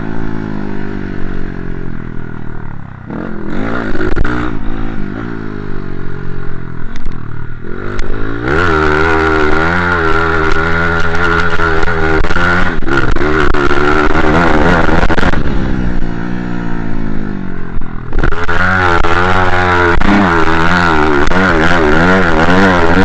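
Motocross dirt bike engine revving hard and easing off over and over, its pitch rising and falling, with the throttle dropping off about three seconds in and again around eight seconds in.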